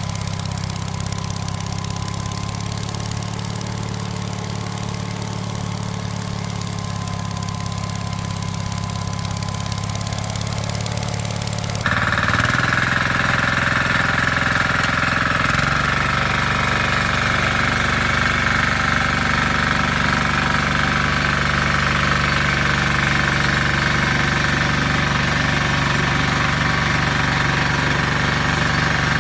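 Walk-behind tractor engines running steadily. About twelve seconds in, the sound cuts abruptly to a louder engine with a higher whine.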